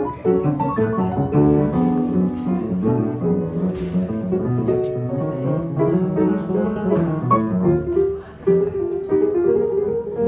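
Piano music with many quick notes moving in the middle register, and a couple of sharp clicks about four and five seconds in.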